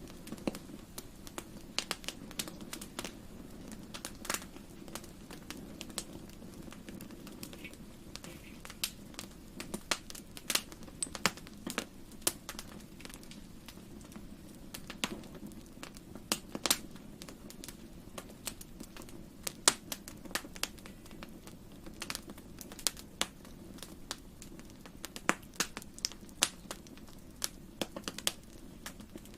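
Wood fire crackling in a fireplace: irregular sharp pops and snaps, several a second at times, over a steady low hum.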